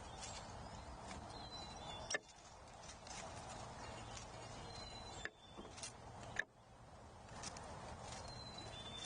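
Outdoor ambience at a wildlife feeder: a steady hiss with a few sharp taps or clicks, and a faint, short, high chirp repeating every few seconds.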